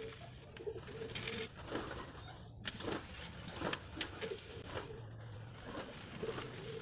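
A bird giving short, repeated low coos, with scattered light clicks between them.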